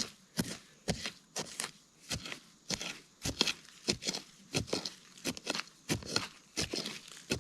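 Repeated crunching strikes on the forest ground, about three a second and slightly uneven, each sharp and crisp.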